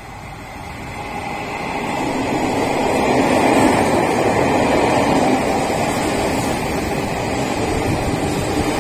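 Meitetsu Panorama Super electric train passing close along the platform without stopping: the wheel-on-rail rumble and rush of air grow louder over the first few seconds and then hold steady as the cars run by, with a faint steady high tone over the noise.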